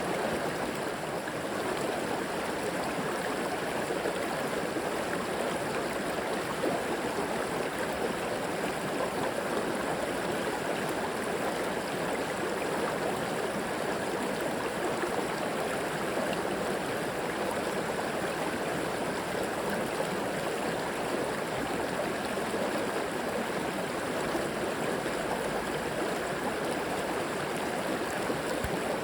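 River or creek water flowing and burbling steadily over rocks, an even rushing with no breaks or distinct events.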